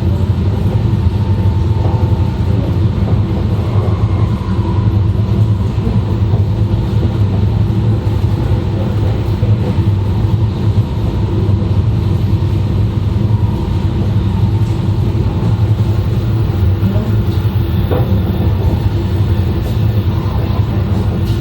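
Running noise of an E2 series Shinkansen (set N13, Mitsubishi IGBT inverters), heard from the vestibule deck inside car 5: a steady low rumble with faint steady tones above it.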